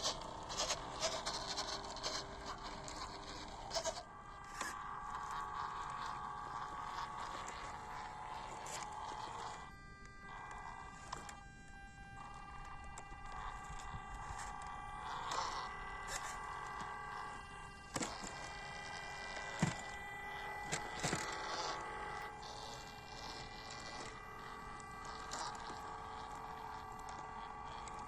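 Small electric motors and gear trains of 1/16-scale WPL C24 RC crawler trucks whining, the pitch stepping up and down as the throttle changes, with scattered clicks and knocks from the trucks on the trail.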